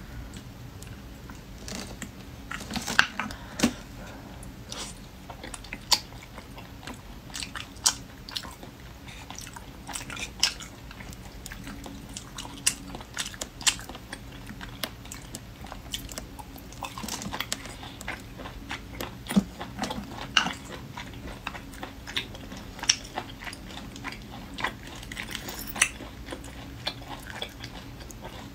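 Close-miked chewing and biting of braised river snails, with irregular sharp clicks and smacks.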